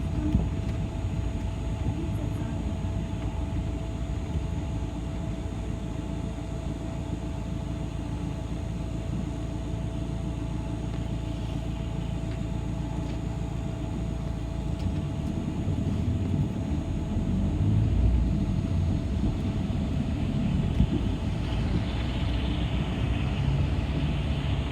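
City bus heard from inside the cabin while it drives: a steady engine and road rumble with a constant whine, getting rougher and a little louder in the second half.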